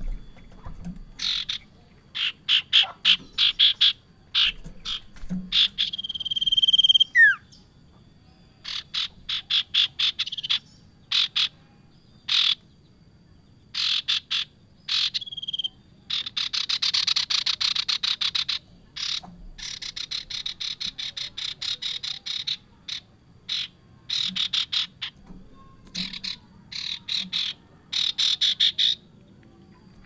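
Common iora (sirtu) singing vigorously: a run of fast, high chattering trills, a falling whistle about seven seconds in, and long buzzing rattles in the middle.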